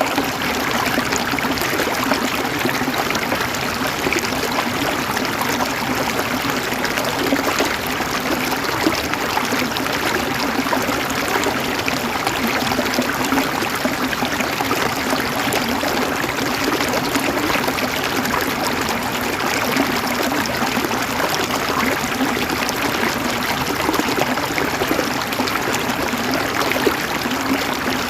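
River water flowing and babbling steadily over rocks, an even rushing with no change.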